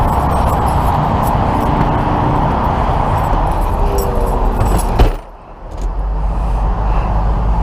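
Steady freeway traffic noise that is cut off just after five seconds by a sharp click, as of a vehicle door shutting, leaving a low engine rumble.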